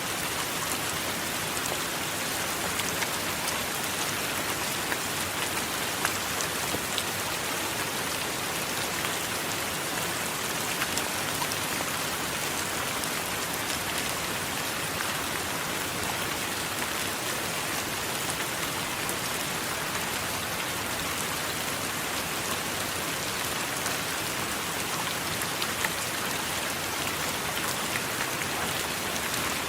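Steady heavy rain, an even hiss with many small drop ticks.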